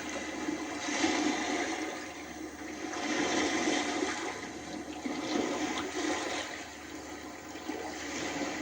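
Sea waves washing on a shore: a steady rush of water that swells and fades every couple of seconds.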